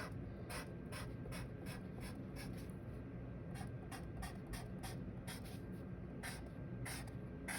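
A pen scratching on paper in quick short strokes, several a second, as a pattern of lines is drawn.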